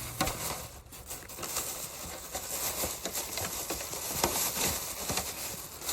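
Plastic bag rustling and crinkling, with scattered small clicks and taps, as it is fitted as a liner into a litter box's waste drawer.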